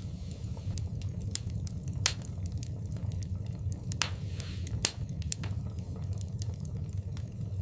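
Wood fire burning in a fireplace: irregular sharp pops and snaps over a steady low rumble, with louder pops about two seconds in and again near five seconds.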